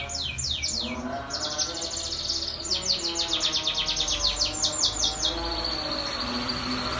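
Domestic canary singing: fast trills of rapidly repeated high, downward-sweeping notes, ending in a high note held steady for the last second or two.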